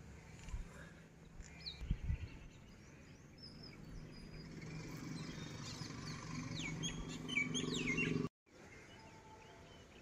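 Birds chirping, many short high calls, over a low rumble that builds from about halfway through. A couple of low thumps come in the first two seconds, and the sound cuts off abruptly near the end.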